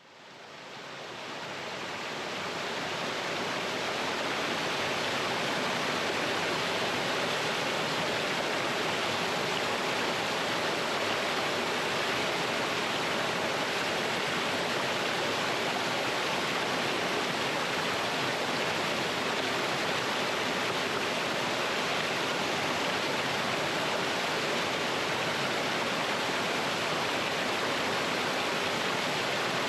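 Small mountain waterfall and stream rushing and splashing over rocks, a steady even wash of water sound that fades in over the first few seconds.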